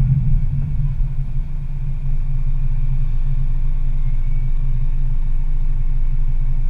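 Car engine idling at a standstill: a steady low rumble.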